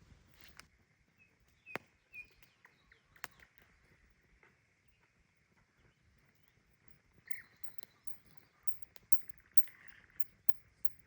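Outdoor natural ambience with scattered short bird chirps and a few sharp clicks, and a brief buzzy call near the end.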